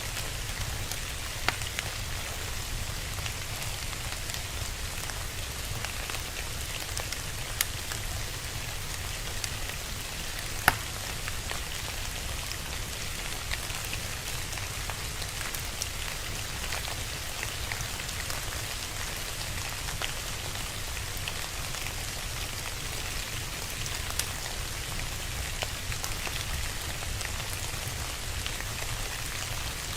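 Steady rain falling, mixed with a fire crackling: a handful of sharp, scattered pops over the even hiss of the rain, the loudest about eleven seconds in.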